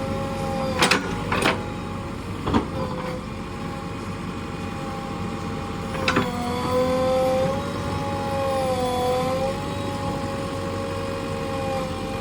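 JCB 3DX backhoe loader working: the machine runs with a steady whine that sags in pitch and comes back about eight to nine seconds in, with sharp metallic clanks about one, one and a half, two and a half and six seconds in.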